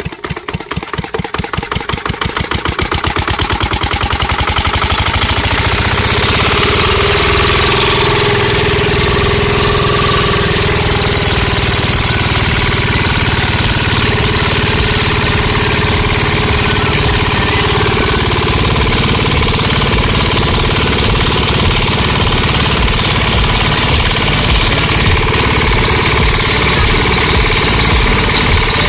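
Miniature diesel engine starting up: slow separate firing beats speed up and grow louder over the first few seconds, then it runs fast and steady.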